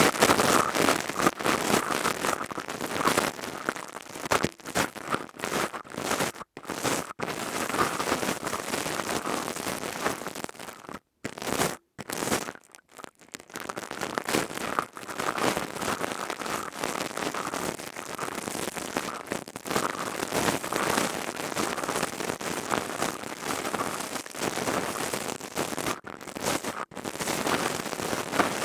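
Close-miked ASMR crackling and scratching from a crystal tube trigger worked against the microphone: a dense, continuous fizzing crackle that stops briefly a few times.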